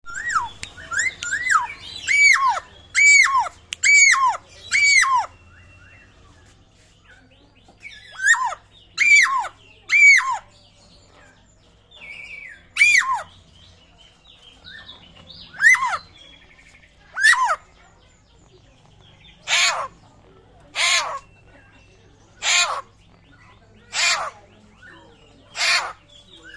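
Papuan butcherbird calling. First comes a quick series of short, clear, down-slurred whistles, about two a second, then spaced single whistles. About two-thirds of the way in it switches to a run of six harsh, rasping calls about one and a half seconds apart. The whistles sound like a raptor's.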